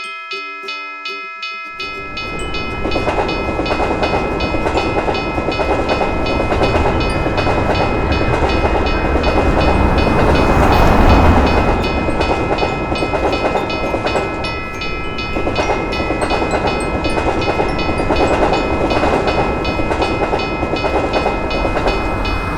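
Railroad crossing bell dinging in a steady rhythm, joined about two seconds in by a train rumbling past on the rails, growing louder toward the middle while the bell keeps ringing.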